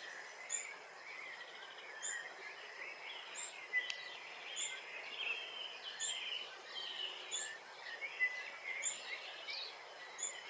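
Small birds calling: a steady jumble of twittering chirps and trills, cut through by a thin, very high chirp that repeats about every second or so.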